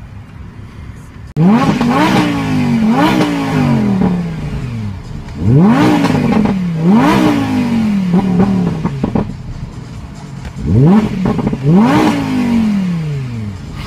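Audi R8 V10 plus's 5.2-litre V10 engine idling, then revved in three bursts of two quick blips, the pitch shooting up twice and sliding back down to idle each time.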